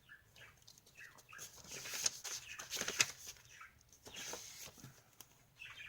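Paper pages of a handmade journal being turned and rustled, loudest about two to three seconds in, with short chirps from a pet bird.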